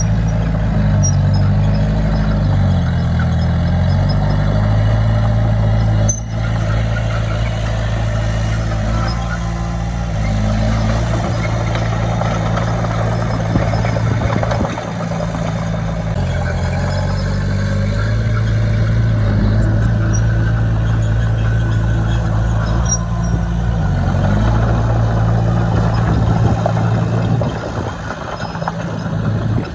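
Diesel engine of a crawler bulldozer running steadily under load, its pitch dipping and rising a few times, with a dense rattling clatter over it. A single sharp knock about six seconds in.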